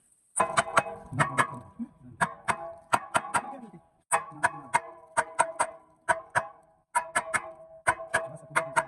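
Hammer striking steel over and over in quick runs of two to four blows, about three a second, each blow ringing on after it.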